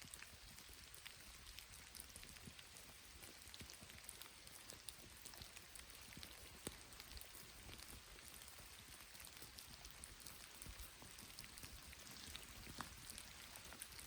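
Light rain falling, a faint steady hiss dotted with many small scattered ticks of drops.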